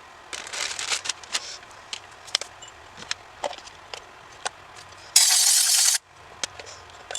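Small metal carburetor parts clicking and rattling as they are handled. About five seconds in, an aerosol can of carburetor cleaner sprays in one hiss lasting just under a second, which cuts off abruptly.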